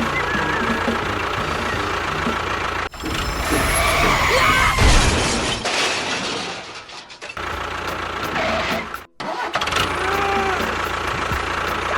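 A motor running steadily, broken off abruptly twice, about three seconds in and again about nine seconds in.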